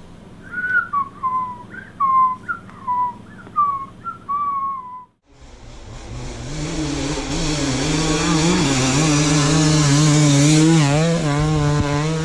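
About seven short whistled notes, each falling in pitch. Then, after a brief cut, a dirt bike engine comes in, running and revving with a wavering pitch and growing louder.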